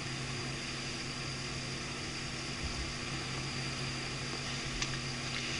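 Steady hiss with a faint low hum: the background noise of an old film soundtrack between lines of dialogue, with no distinct event.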